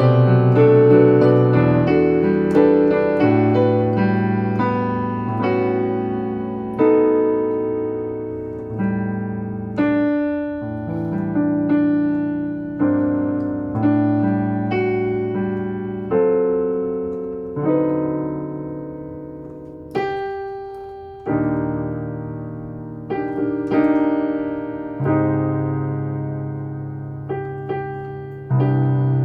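Solo jazz piano playing slow ballad chords, each struck chord ringing and fading before the next.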